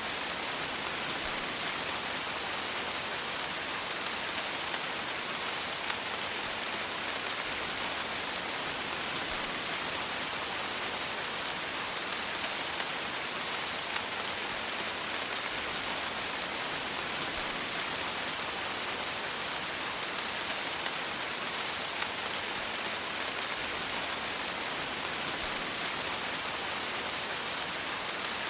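Steady rain falling, an even hiss of many small drops striking a surface, with faint individual drop ticks and no change in strength.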